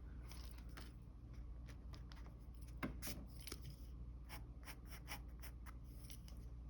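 Mechanical pencil sketching on paper in short, quick strokes, with one sharper click a little under three seconds in.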